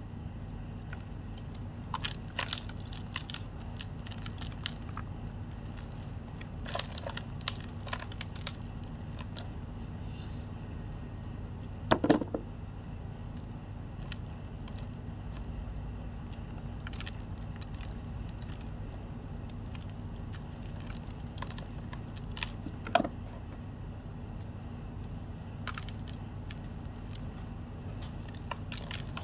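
White gym chalk being crunched and crushed, with scattered sharp crunches and crackles. The loudest come about twelve seconds in and again near twenty-three seconds. A steady low hum runs underneath.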